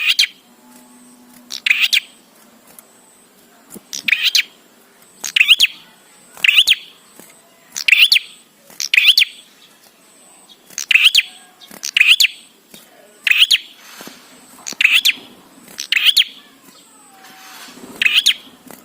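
Prenjak (prinia) calling repeatedly: short, sharp, high-pitched calls, each a quick cluster of notes, coming about once a second with a few brief pauses.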